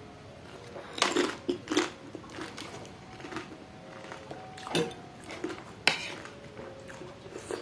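Sounds of eating pani puri: about four short, sharp crunches and clinks, spaced a second or more apart.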